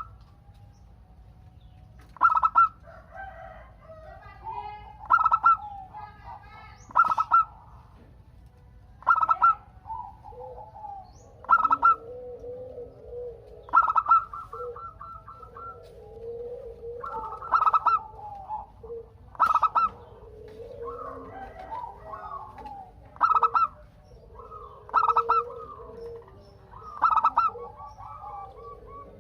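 Zebra doves (perkutut) cooing. Loud, short calls recur about every two seconds, with softer cooing and trilled notes in between.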